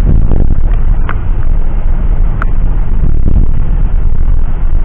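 Steady loud rumble of airliner cabin noise from the jet engines and airflow, with a couple of faint clicks and a brief thin tone about halfway through.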